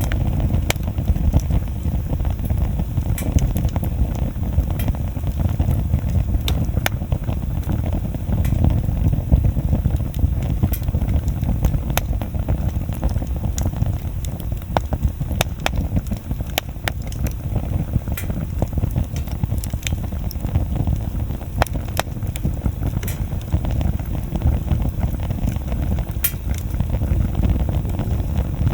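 Wood bonfire burning, with sharp, irregular crackles and pops from the burning wood over a steady low rumble.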